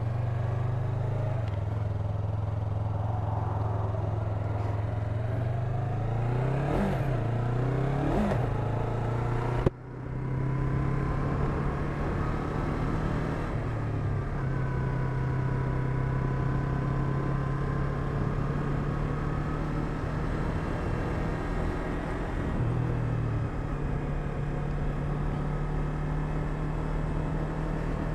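Yamaha MT-03 parallel-twin engine pulling away and accelerating, the revs rising a few seconds in, with one sharp click about ten seconds in, then running steadily at cruising speed.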